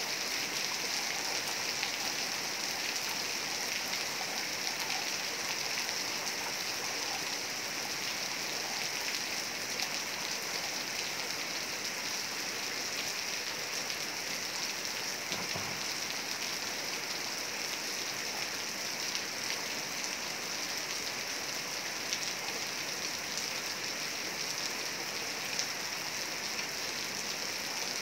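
Heavy rain falling steadily: an even hiss of rain on surfaces.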